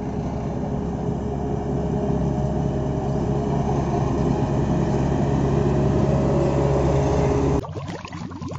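Single-drum road roller (roller compactor) with its diesel engine running steadily and growing slightly louder. Near the end it cuts off suddenly, and water sloshing and dripping in a bucket follows.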